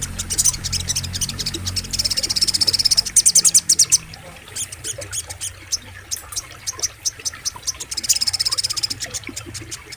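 Rapid trilling chatter of a small songbird: fast series of sharp high notes, several dense trills of a second or so each, with a low steady rush of flowing river water underneath in the first few seconds.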